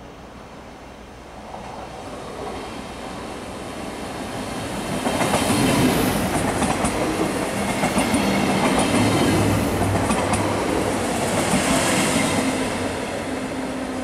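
ÖBB Desiro commuter train passing close by at station speed. Its running noise builds from about two seconds in, is loudest through the middle with steady low hums and scattered wheel clicks over the rail joints and points, and fades near the end as it moves away.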